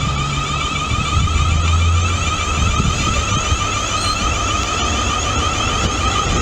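A train running, with a steady high-pitched whine over a low rumble.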